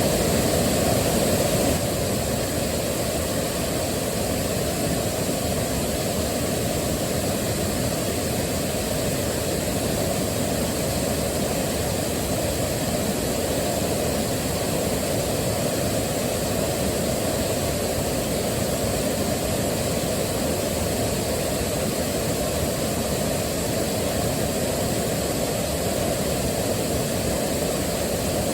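Waterfall: falling water rushing steadily, heavy in the low end, slightly quieter from about two seconds in.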